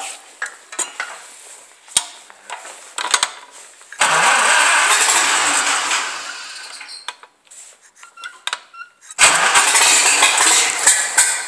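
Old carburetted engine being cold-started after three months sitting in winter: two start attempts of two to three seconds each, about four and nine seconds in, the first fading away and the second cutting off, with the engine not staying running. Scattered light clicks before the first attempt.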